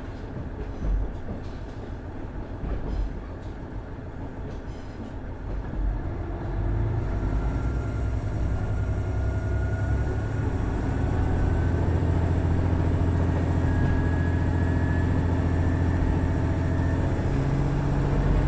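Onboard running sound of a KiHa 110 series diesel railcar. It rolls along with a few clicks from the wheels. About six seconds in, its Cummins DMF14HZA diesel engine comes up under power, growing louder, and its note rises slowly as the railcar picks up speed.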